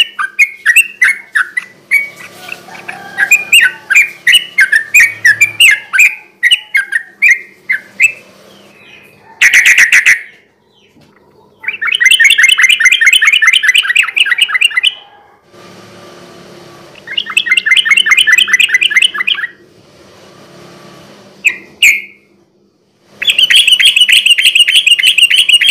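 Yellow-vented bulbul singing: a quick run of chattering notes for the first eight seconds, then phrases of fast trilled song two to three seconds long, separated by short pauses.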